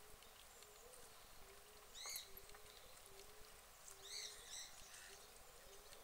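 Faint bird chirps: a single high chirp about two seconds in, then two or three quick ones just after four seconds, over a quiet outdoor background.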